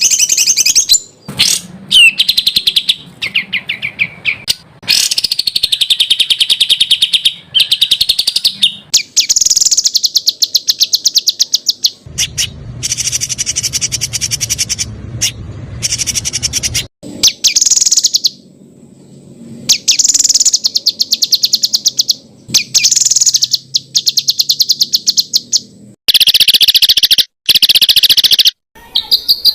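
Songbird song of the kind used as masteran for competition birds: fast, harsh, rapidly repeated chattering and trilling phrases, a few per second, each stopping abruptly before the next starts.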